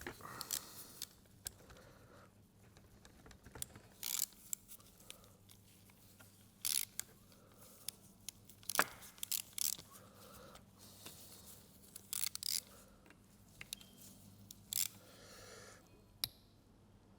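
Irregular clicks, light knocks and short scrapes of oil pump parts being handled and moved around on a workbench, over a faint steady hum.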